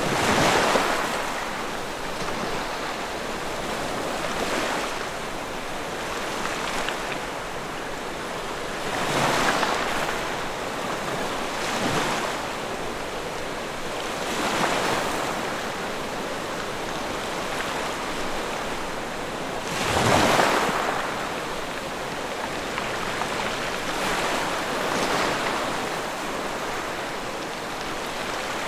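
Log fire burning with a steady rushing hiss that swells and fades every few seconds.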